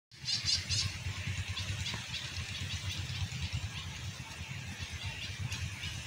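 Small birds chirping outdoors: three quick trilled calls in the first second, the loudest part, then thinner chirps repeating, over a steady low rumble.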